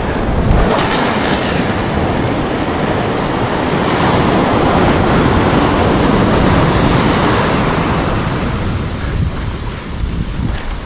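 Surf washing onto a beach in a continuous rushing noise that swells about halfway through and eases a little near the end, with wind on the microphone.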